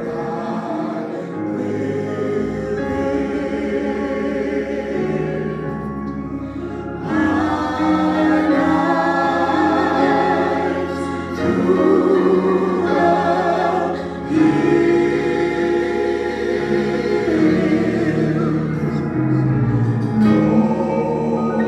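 A choir singing a gospel hymn over keyboard accompaniment, getting louder about seven seconds in.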